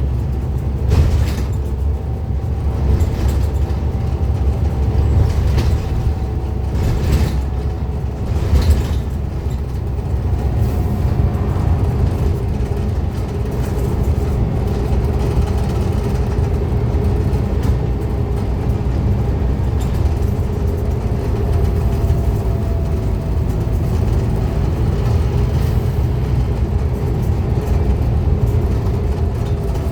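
Scania N230UD Omnicity double-decker bus under way: steady engine and road noise with a faint whine that drifts slightly in pitch, and a few short rattles in the first nine seconds.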